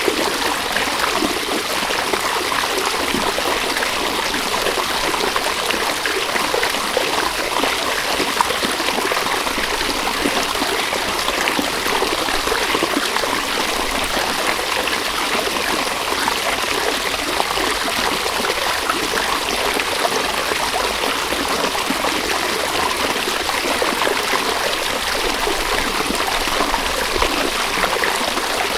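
A river or stream running steadily over stones, a continuous rushing with fine splashing and trickling flickers.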